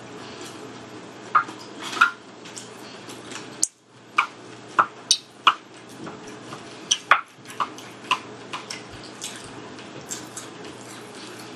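Close-up wet chewing and lip-smacking, heard as a string of sharp, irregular clicks, with a fork picking at food on a plate.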